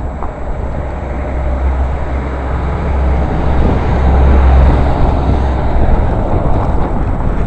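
Gusting wind buffeting the microphone: a steady low rumble with a rushing hiss, growing stronger about halfway through.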